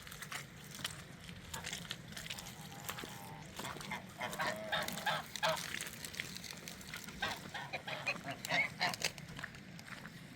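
Farm fowl calling: a run of short harsh calls, thickest about four seconds in and again near eight seconds, over a faint low hum.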